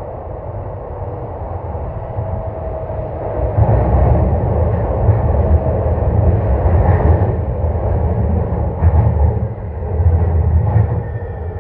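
Sotetsu 21000 series electric train running in a tunnel, heard from on board: a steady rumble of wheels and running gear that grows louder about three and a half seconds in, with uneven low thumps.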